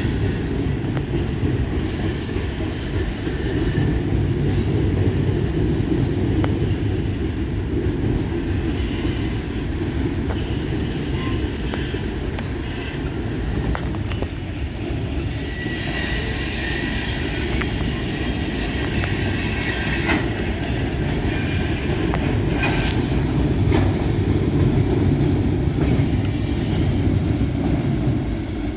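Norfolk Southern freight train's cars rolling past with a steady rumble of wheels on rail, and a high wheel squeal rising over it from about halfway through for a few seconds.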